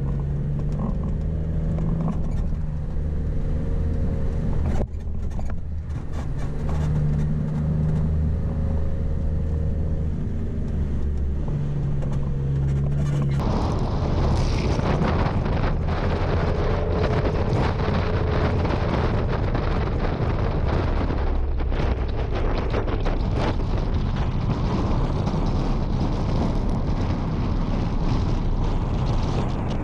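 2009 Jeep Wrangler JK's engine running under load while driving over soft sand dunes, its note stepping up and down with the throttle. About 13 seconds in, a loud rushing wind noise on the microphone sets in and largely covers the engine.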